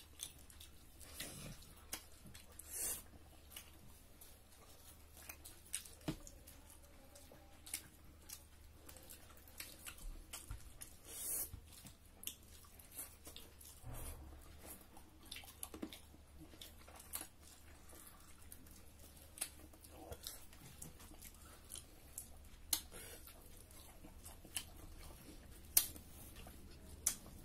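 People chewing and eating duck curry and rice with their fingers: wet chewing and lip smacks with many short, irregular clicks.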